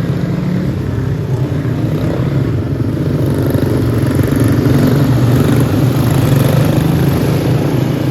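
Small four-stroke kart engines, of the Briggs & Stratton Animal class, running at racing speed during a heat. The drone swells a few seconds in and eases slightly near the end.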